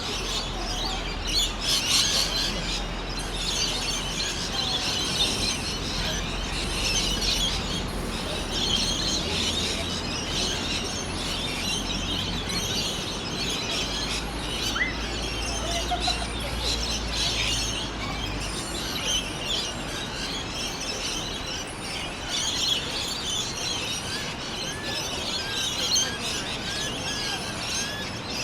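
Many small birds chirping at once in a dense, continuous chorus, with a low rumble underneath for the first two-thirds. A series of short, repeated rising-and-falling notes comes in near the end.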